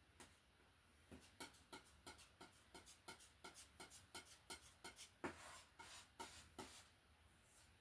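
Faint, quick dabs of a paint brush tapping and pushing paint onto a canvas, about three strokes a second with a couple of longer scrapes, building up a tree's foliage.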